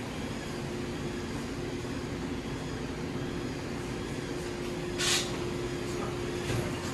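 Steady mechanical hum with one constant tone running under the shop's background noise. About five seconds in there is one brief, sharp noise.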